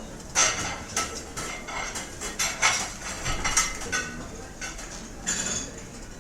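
Cutlery and dishes clinking and clattering at restaurant tables: a quick run of sharp metal-on-china clinks, some ringing briefly, over a steady low room murmur.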